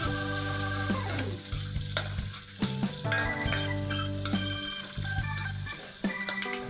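Diced sausage and chicken stir-frying in oil in a pan, sizzling, with a metal spatula scraping and knocking against the pan many times. Steady background music with held notes plays underneath.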